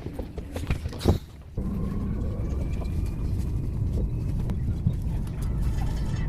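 Steady low rumble of a moving road vehicle, starting suddenly about a second and a half in, after a few sharp clicks and a brief quieter gap.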